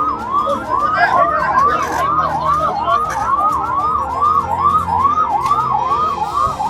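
Emergency vehicle siren sounding in a fast yelp, about three rising-and-falling sweeps a second.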